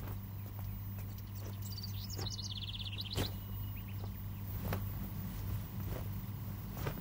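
Quiet room ambience with a steady low hum and faint soft rustles and taps. A bird gives a short, rapid chirping trill about two to three seconds in.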